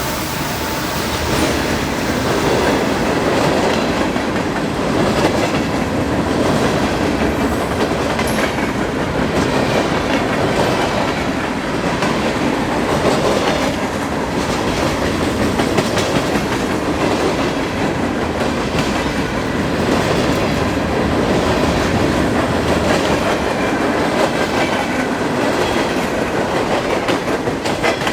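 A train rolling steadily past, its steel wheels clacking over the rail joints.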